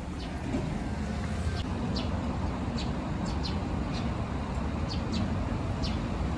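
Steady low rumble of outdoor background noise, like distant traffic, with scattered short high chirps or squeaks.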